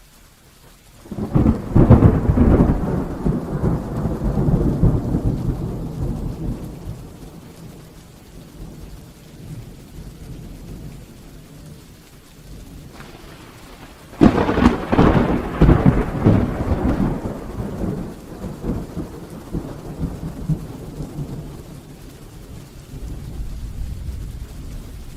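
Two peals of thunder over steady rain. The first breaks about a second in and rumbles away over several seconds; the second starts with a sharp crack just past the middle and rumbles on, dying slowly toward the end.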